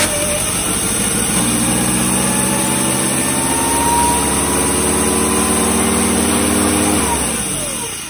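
Chevy 2.5L Iron Duke four-cylinder running at a high idle that creeps upward instead of settling: a runaway idle, which the owner puts down to a vacuum leak. The engine is shut off about seven seconds in and the sound dies away.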